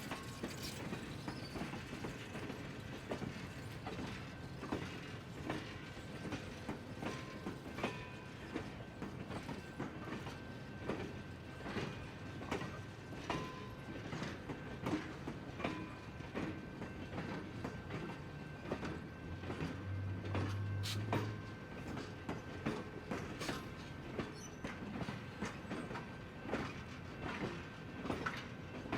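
Passenger train rolling slowly along the track: its wheels click and knock at irregular intervals over a steady low rumble, with occasional creaks and light squeals from the cars.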